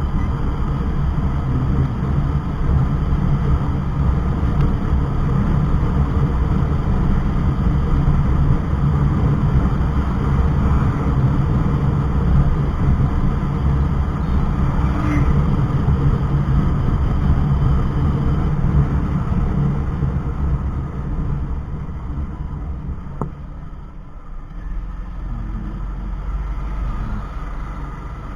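Motorcycle on the move: engine running with a steady rush of wind over the microphone, easing off somewhat in the last several seconds.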